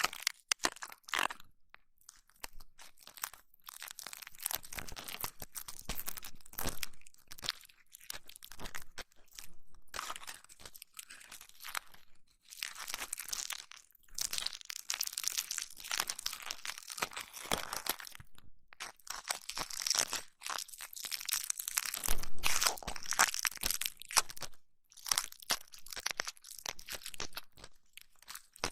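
Close-miked ASMR ear massage: hands rubbing and scratching on the microphone's ears, heard as irregular crackling and rustling strokes with short pauses between them.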